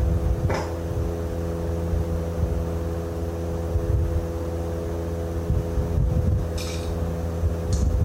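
Steady low machine hum, like an engine running, with a few short metallic clinks about half a second in and twice near the end.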